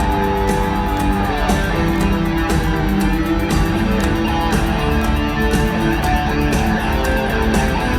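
Live rock band playing an instrumental passage: electric guitar lines over bass guitar and a steady drum beat.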